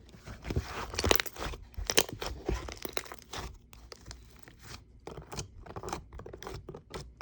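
Cement-type slime being squeezed and worked by hand, giving a dense run of crisp crackling and crunching clicks.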